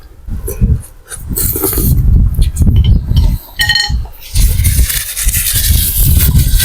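Close-miked eating of boat noodle soup: chewing with wet mouth sounds, and a long hissing slurp of noodles and broth in the second half.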